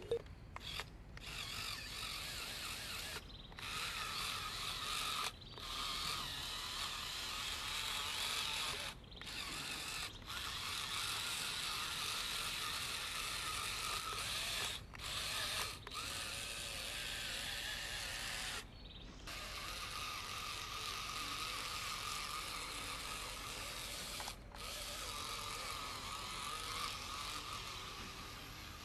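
Small electric motor and gearbox whirring steadily with a thin whine, cutting out briefly about nine times.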